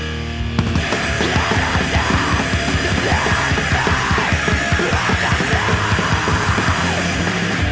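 Loud, aggressive heavy rock with distorted guitars: a held chord rings until about half a second in, when the full band crashes in with fast, pounding drums. There is a brief break near the end.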